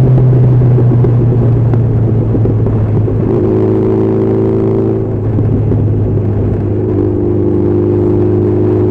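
Honda CB1300SF's inline-four engine running at a steady highway cruise, its note easing slightly in the first second and then holding even.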